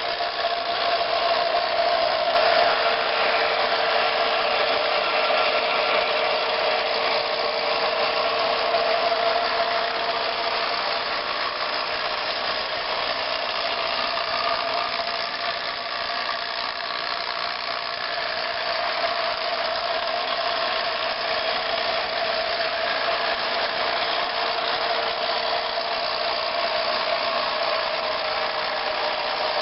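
A motor running with a steady whine, its pitch wavering slightly, over a mechanical hum.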